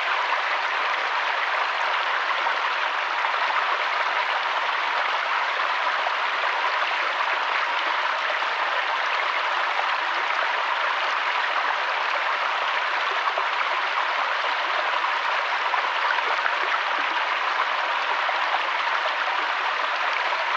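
Mountain stream and waterfall: a steady rush of flowing, splashing water that does not change.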